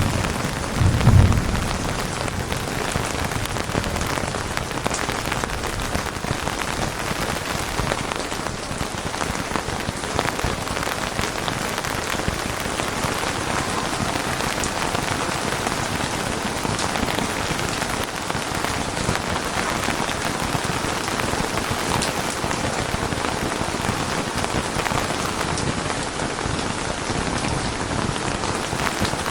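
Steady, dense rain falling on a surface, an even hiss with many fine drop patters. A low rumble fades out in the first second or two.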